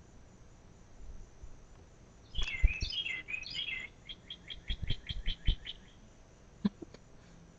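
A songbird singing outdoors: a phrase of swooping chirps, then a fast trill of about ten short even notes, roughly five a second. A few low thumps sound under the song.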